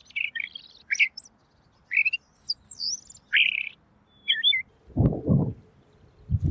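Pekin robin (red-billed leiothrix) singing a string of short, clear whistled notes that rise and fall quickly. About five seconds in come two low muffled bumps.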